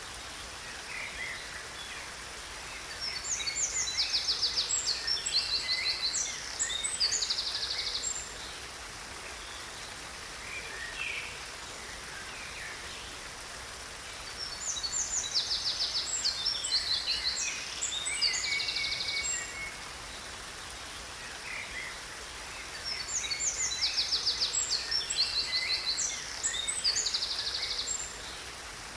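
A songbird singing three phrases of quick trills and chirps, each about five seconds long, over the steady rush of a waterfall.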